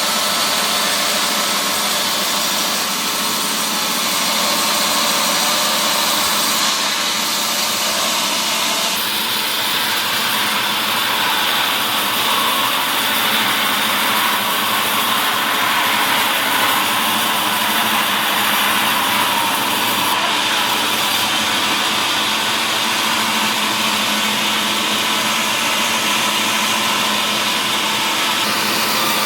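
Woodworking machinery in a mill cutting mahogany, running as a loud, steady mechanical noise. Its high hiss strengthens and fades a few times.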